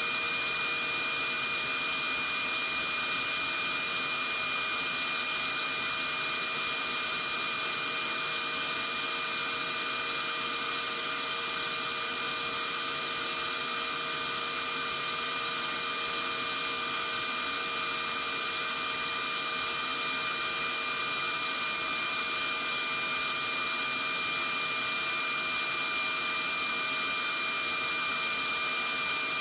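Vacuum cleaner running steadily: an even hiss with a high, constant motor whine, unchanging throughout, used as white noise to lull a baby to sleep.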